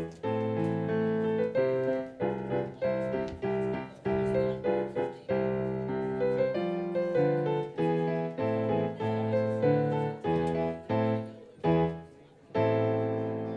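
Piano playing slow chords, each struck and then fading. A final chord is struck about twelve and a half seconds in and rings on, dying away.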